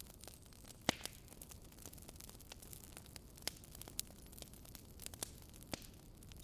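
Wood fire crackling in a fireplace: sharp, irregular pops over a soft steady hiss, the loudest pop about a second in.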